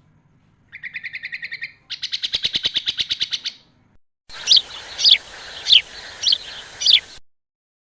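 Sooty-headed bulbul (kutilang) song from a tutor recording: rapid chattering trills, then a faster, louder trill, then five sharp down-slurred whistles about half a second apart. The sound stops abruptly about 7 seconds in.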